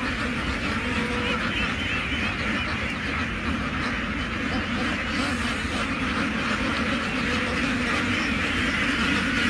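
A large flock of domestic ducks quacking all at once, a dense unbroken chorus, over a low steady rumble.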